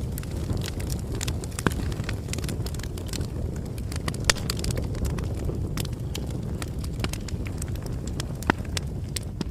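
Bonfire burning: a steady low rumble of flames with irregular sharp crackles and pops of burning wood.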